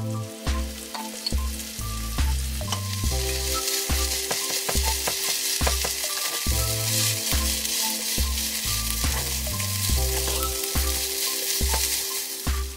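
Cold rice and diced radish kimchi sizzling steadily as they are stir-fried in a frying pan. A spoon clicks and scrapes against the pan as it turns them over. Quiet background music with a pulsing bass runs underneath.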